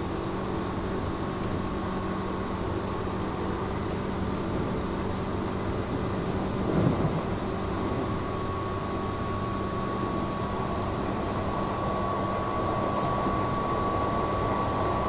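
Running sound inside a Tobu 8000 series resistor-control electric train under way: a steady rumble of wheels and motors. A brief louder thump comes about seven seconds in, and a thin steady whine holds from about eight seconds on.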